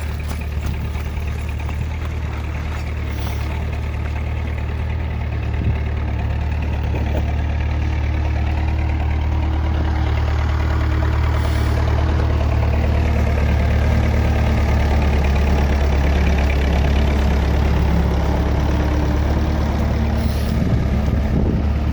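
Tractor engine running steadily with a heavy low drone, slowly growing louder through the first half or so.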